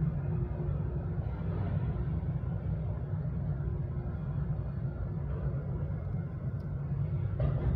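Steady low engine rumble, with a faint steady hum above it and a short higher sound near the end.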